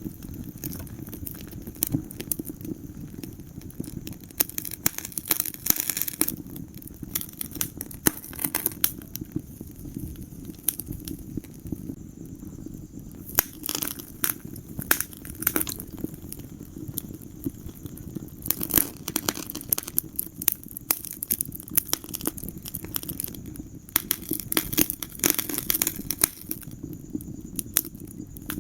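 Wood fire in a fireplace burning with a steady low rumble of flames and irregular sharp crackles and pops, coming in denser clusters every few seconds.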